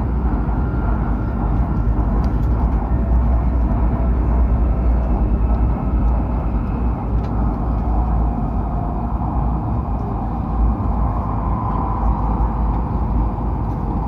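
Running noise of a Hokuriku Shinkansen train at speed: a steady deep rumble with a hiss above it and a faint, wavering whine.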